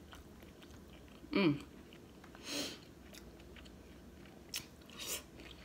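Close-mic eating sounds of a woman chewing seafood boil food, with a short hummed "mm" about a second and a half in and a few short wet clicks near the end.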